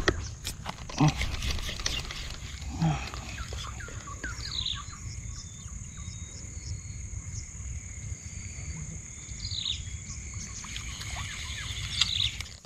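Rural outdoor ambience: a bird chirping three times, each a short falling note, over a steady high-pitched drone, with a few knocks in the first three seconds.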